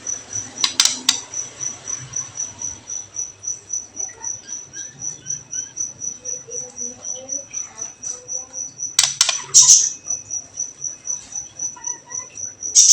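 Steady high-pitched cricket-like trill pulsing about four times a second, with faint short chirps beneath and sharp crackling bursts about a second in, around nine seconds in and at the end: a crackle-and-whistle provocation track played to rouse caged songbirds.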